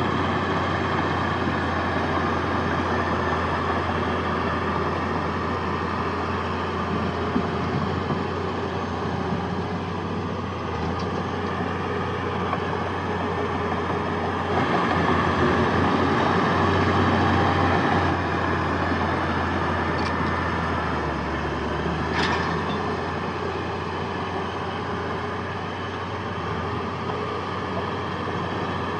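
Heavy diesel earthmoving machinery running steadily. It grows louder for a few seconds around the middle, with a few short clinks later.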